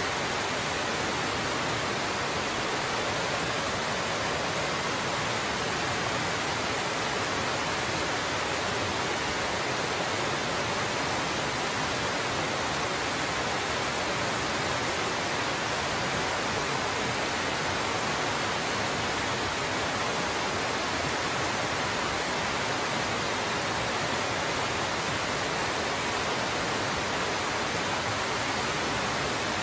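Waterfall pouring steadily: an even, unbroken rush of water.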